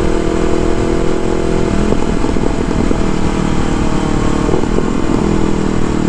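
Motorcycle engine running at steady road speed while riding, its note holding even, then shifting briefly about two seconds in and again near four and a half seconds.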